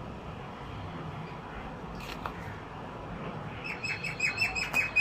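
A small bird chirping a fast run of short, even notes, about six a second, starting a little over halfway through, over a steady low background hum.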